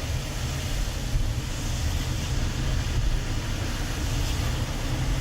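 Steady road and engine rumble of a moving car, heard from inside the car.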